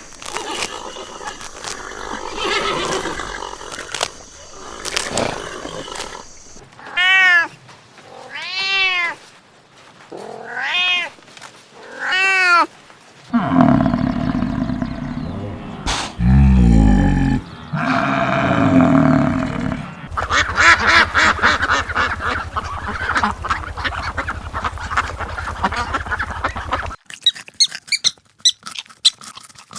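A series of different animal calls, one kind after another: a few rising-and-falling cries repeated about a second apart, then heavy low sounds, then a long pulsing buzz, and quick high chirps near the end.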